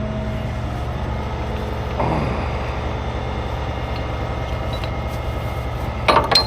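Heavy tow truck's diesel engine running steadily, with a few sharp metallic clicks near the end.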